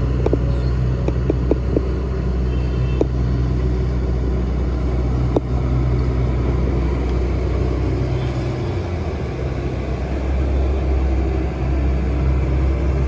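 Hitachi Zaxis excavator's diesel engine running steadily, with several sharp knocks in the first few seconds. The engine note sags briefly about eight seconds in, then picks up again.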